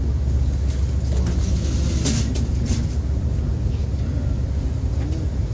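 Steady low rumble inside an Amtrak passenger train car, with a few short clicks or rattles about two seconds in.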